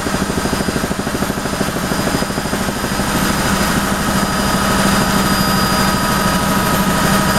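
Helicopter running steadily: a constant turbine whine over the rapid, even beat of the rotor blades.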